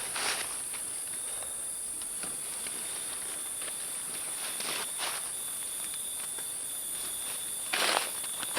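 Steady, high-pitched insect chorus of crickets or cicadas in tropical forest, joined by a thin steady trill about three seconds in. A few brief rustling footsteps come through it, near the start, around five seconds and near the end.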